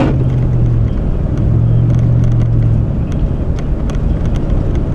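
Car driving on a snowy road: a steady low engine drone over road noise, with scattered faint ticks.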